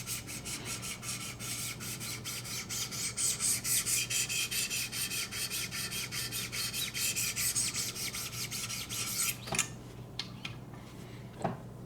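800-grit sharpening stone on a guided sharpening system, stroked rapidly and evenly along a VG-10 knife edge, several scraping strokes a second. The strokes stop about three-quarters of the way in, and a couple of light clicks follow.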